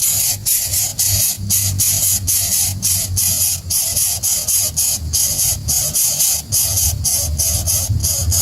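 Loud high-pitched hiss that pulses, cutting out briefly about three times a second, over a low steady hum.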